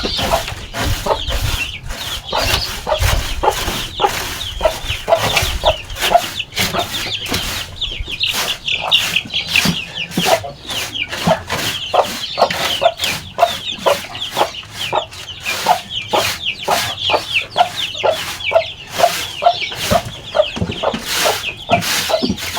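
Chickens calling continuously: young chicks cheeping in many quick, high, falling peeps, with lower clucking mixed in.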